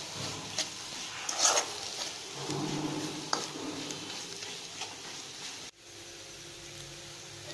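Sliced onions frying in oil with sugar in an aluminium kadai, stirred with a steel spoon that scrapes and clicks against the pan a few times, loudest about a second and a half in; the sugar has just gone in to caramelise the onions. Near the end the frying cuts off abruptly and a fainter steady hum takes over.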